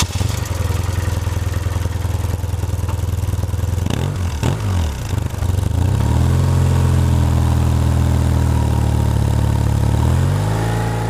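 BMW R1150R Rockster's boxer twin engine running steadily. About four seconds in the revs swing down and back up, then settle, and they rise again near the end.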